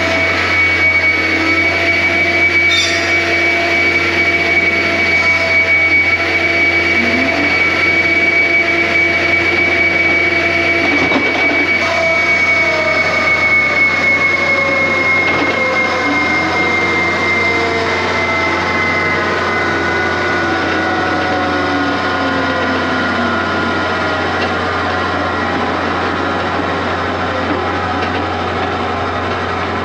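John Deere 333G compact track loader's diesel engine and hydraulics running under working load, with a high steady whine that slowly drops in pitch and engine tones that rise and fall as the machine works.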